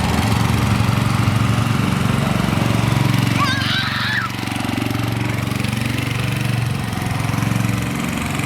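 Small engine of a homemade three-wheel go-kart running steadily with a rapid, even chugging beat. A brief high warbling sound comes through about three and a half seconds in.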